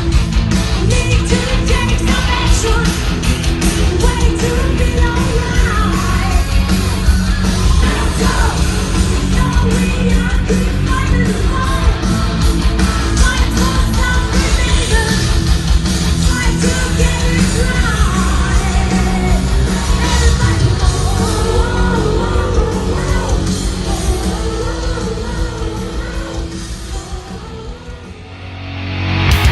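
Live heavy metal: distorted guitars, bass and fast drums with singing and yelled vocals, fading out near the end.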